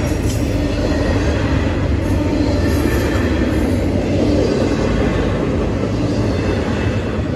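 Double-stack intermodal freight train passing at a grade crossing: a steady, loud rumble and clatter of steel wheels on the rails.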